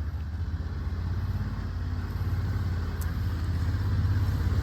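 Jon boat's motor running at low speed, a steady low rumble that gets gradually louder.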